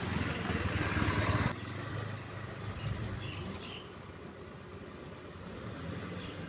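Tractor engine running under load while plowing through mud. A louder, noisier stretch cuts off abruptly about a second and a half in, leaving a quieter, steady engine sound.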